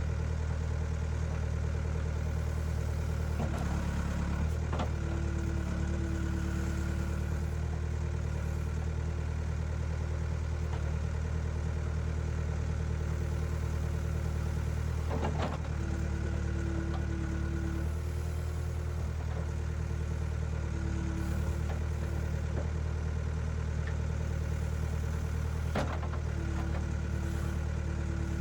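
An engine running steadily at an even speed, with a few short clanks.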